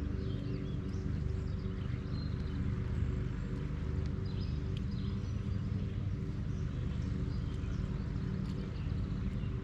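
A steady low motor hum holding one pitch, with short bird chirps above it.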